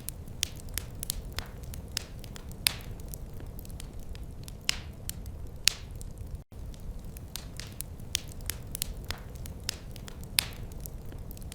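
Wood fire in a fireplace crackling: irregular sharp snaps and a few louder pops over a steady low rumble of the burning logs. The sound cuts out for an instant about six and a half seconds in.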